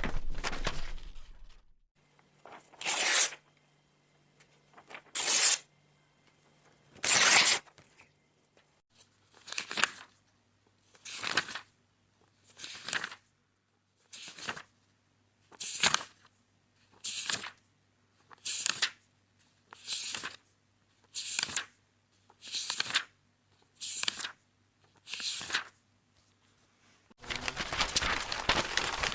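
Paper sounds of a book's pages. There are a few loud rips near the start, then a regular series of shorter page turns about every second and a half, and then continuous dense paper rustling and tearing near the end.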